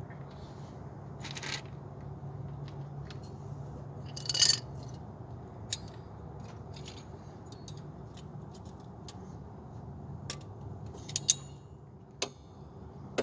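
Rummaging through small hard items, apparently while searching for zip ties: scattered clicks and clinks, with a louder rattling jingle about four seconds in and a few sharp clicks near the end, over a steady low hum.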